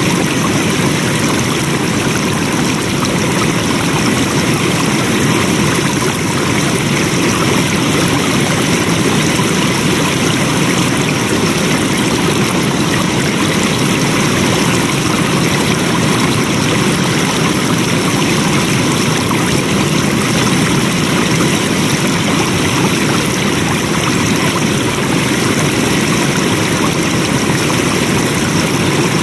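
Flowing water: a stream rushing steadily at an even level, with no change in how it runs.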